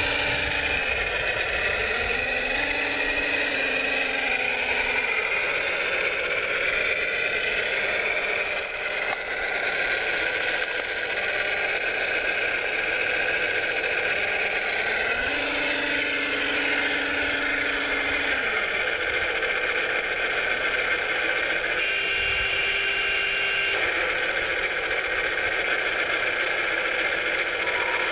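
Whine of radio-controlled model construction machines' electric motors, steady throughout with a clattering undertone, its pitch dipping and rising several times as the motors slow and speed up.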